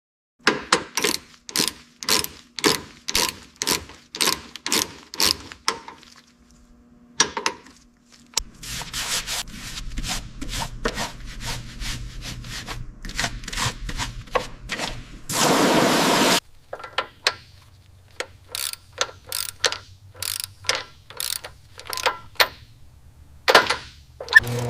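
Rubbing or scraping strokes on a surface, about two a second, then a steady low hum with continuous rasping over it and a louder hiss lasting about a second. Separate, irregular scraping strokes follow.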